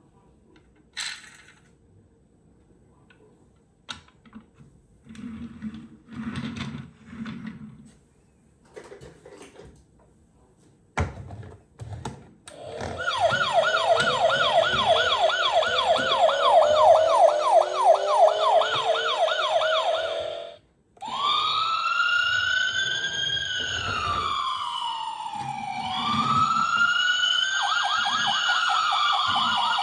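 A few quiet clicks and knocks, then an electronic police siren. It sounds a fast yelp for about eight seconds, breaks off briefly, then runs as slower overlapping wails rising and falling, with the fast yelp returning near the end.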